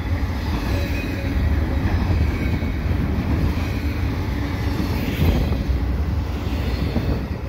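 Double-stack intermodal well cars rolling past at speed: a steady low rumble of steel wheels on rail, rising briefly about five seconds in.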